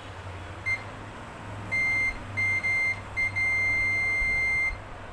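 Multimeter continuity beeper sounding one high steady tone: a brief blip, then a few short beeps and a long beep of about a second and a half as the probe makes contact on the panel's VGL line.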